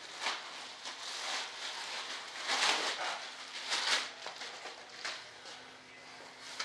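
Rustling and handling noises in several swells about a second apart, then softer shuffling, over a faint steady hum.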